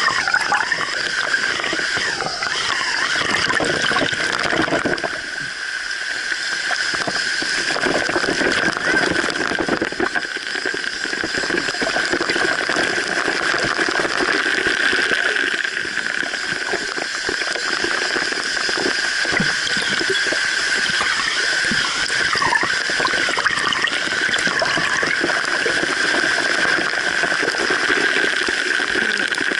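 Steady rush of water from a waterfall, with a continuous even hiss.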